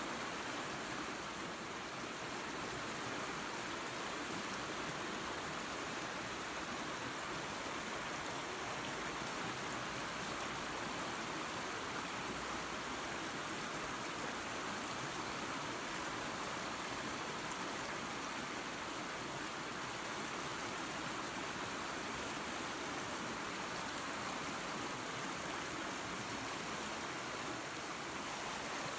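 Small waterfall and creek running, a steady rushing of water with no breaks.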